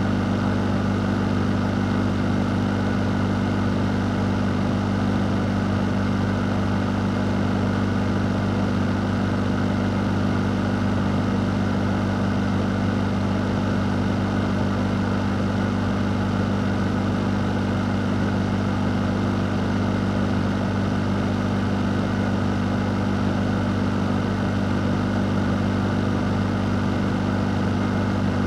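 Electric fan or air-conditioning unit running steadily: a constant low hum under an even rush of moving air, with no change throughout.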